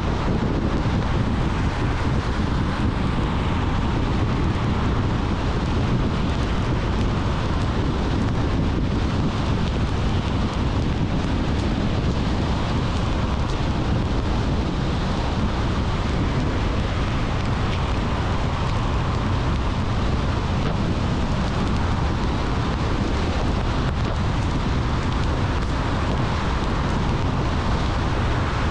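Steady road and wind noise from a car driving at speed.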